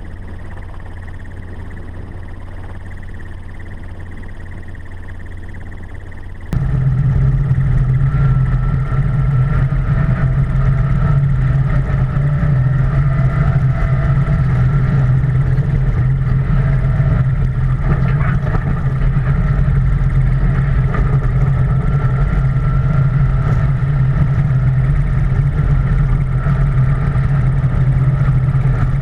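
Vehicle engine running steadily under load, a low hum with some higher whining tones. About six seconds in it jumps abruptly louder and fuller.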